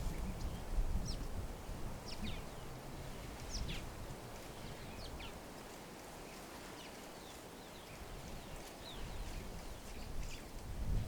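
Birds giving short, high chirps that drop in pitch, repeated irregularly about once a second, over a low rumbling background noise.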